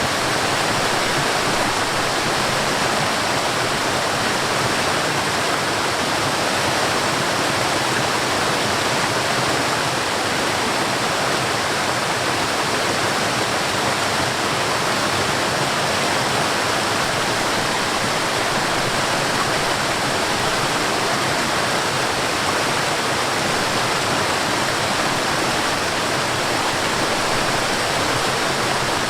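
Mountain stream and waterfall rushing steadily: an even, unchanging hiss of falling and flowing water.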